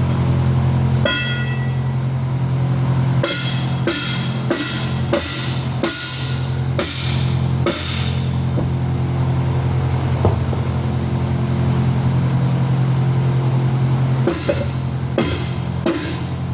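Hammer blows on steel, each a sharp clang with a metallic ring: a run of about eight strikes, roughly one to two a second, then another cluster near the end, tightening the wing nuts of hammer unions on 2-inch plug valves. A steady low hum runs underneath.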